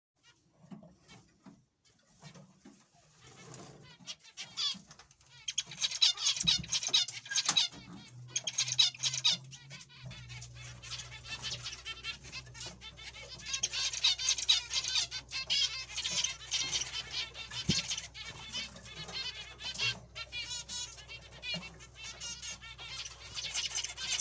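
A group of zebra finches calling: many short, high chirps overlapping in a busy chatter, sparse at first and much denser from about five seconds in.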